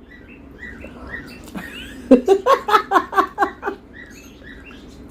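A pet dog whining in a quick run of high-pitched yips for about a second and a half, a little after two seconds in, begging for food. Faint short bird chirps repeat in the background.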